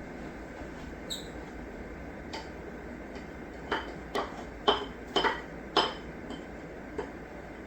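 Kitchen utensil clinking against cookware: a series of light, sharp clinks with a short ringing tone, about six close together in the middle, with a few fainter taps around them.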